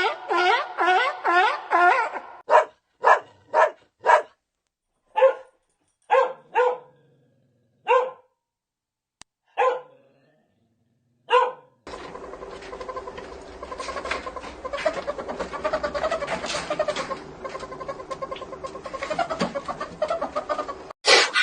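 Dog barking: a quick run of barks, then about ten single barks with gaps of silence between them. From about twelve seconds in, a denser, continuous mix of sound takes over.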